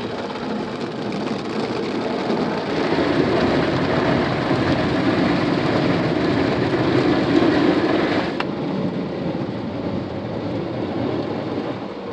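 Automatic car wash water jets spraying and drumming on the car body, heard from inside the cabin. The hiss cuts off suddenly about eight seconds in, leaving a quieter, duller wash noise.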